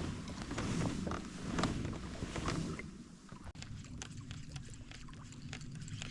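Small knocks, clicks and water sounds from a fishing kayak over a low rumble, quieter after about halfway.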